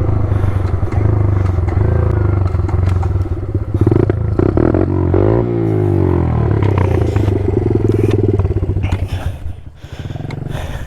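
Pit bike's small single-cylinder engine running, its revs rising and falling around the middle. Near the end it settles to a lower, quieter idle, which the rider feels should be turned up.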